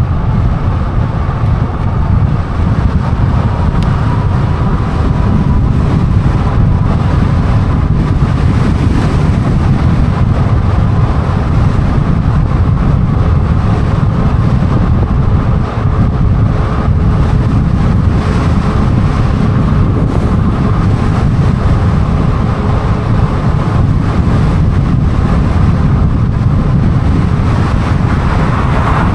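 Steady wind rush buffeting the microphone of a moving e-bike, heavy and low, mixed with road noise, and a faint thin whine coming and going.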